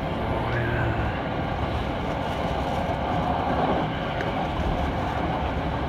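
Steady running noise heard inside a moving Hankyu 7000-series train car: an even rumble of wheels on rail and the car in motion.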